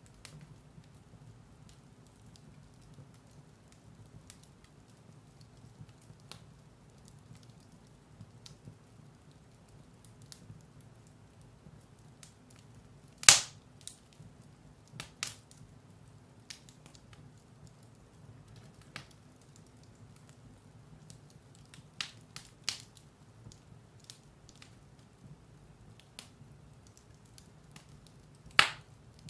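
Firewood burning in a fireplace: scattered sharp crackles and pops over a faint steady low hiss, with a loud pop about halfway through and another near the end.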